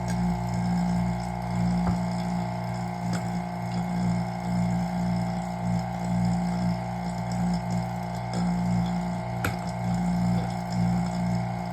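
Vacuum pump running with a steady hum, its level rising and falling slightly about once a second, with a sharp tick near the end.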